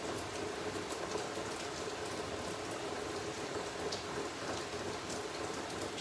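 Steady rain falling, with scattered drops ticking, over a faint steady hum.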